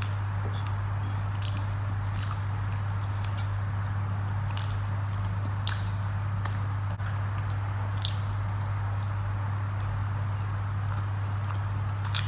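A person eating rice and curry by hand: scattered wet chewing and lip-smacking clicks and fingers squishing food on a plate, over a steady low hum.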